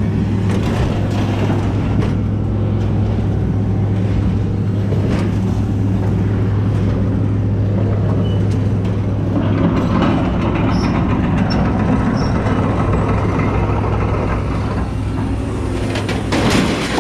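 A heavy engine runs steadily with a constant low hum, while pieces of rusty scrap metal and tools clank as they are thrown onto a scrap pile, with a louder crash near the end.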